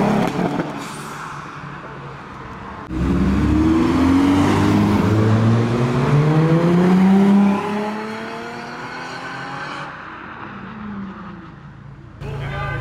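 A car engine accelerating hard, its pitch rising through successive gear changes from about three seconds in, peaking at about seven and a half seconds and then fading as the car drives away. A passing car fades out at the start, and another engine starts running steadily near the end.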